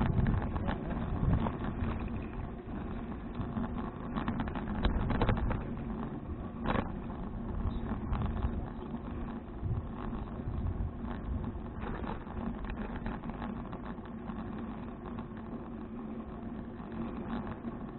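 Wind and road noise from riding a touring bicycle, picked up by a bike-mounted action camera: a steady low rumble with scattered small clicks and rattles.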